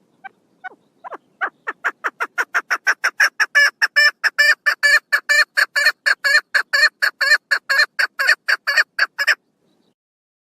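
Female chukar partridge calling: a run of short repeated notes that start sparse and quicken to about four a second, then stop abruptly.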